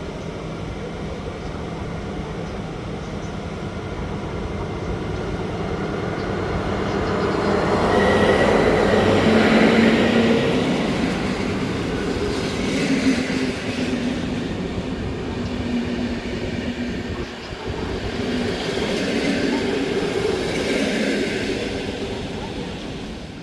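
Train running through the station, its noise swelling to a peak about ten seconds in and rising again near the end.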